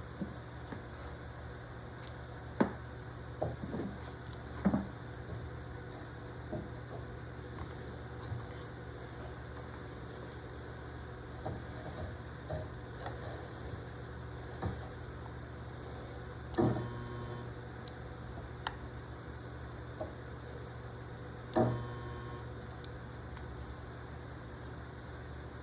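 Steady electrical hum with scattered light clicks and knocks from handling, and two sharp snaps about five seconds apart, each with a brief ring, from a pair of handheld spot-welding guns firing welds on stainless wire cloth.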